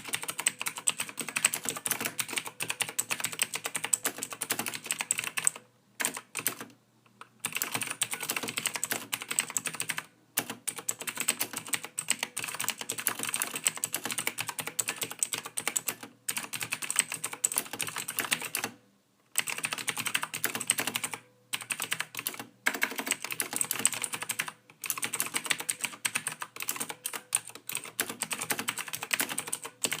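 Soft, fast typing on a computer keyboard: dense runs of key clicks lasting a few seconds each, broken by brief pauses.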